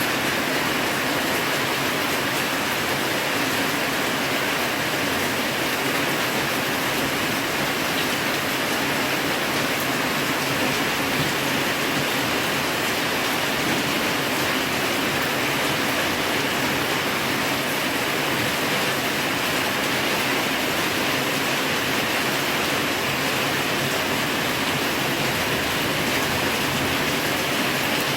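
Heavy rain pouring down in a steady, dense hiss with no letup.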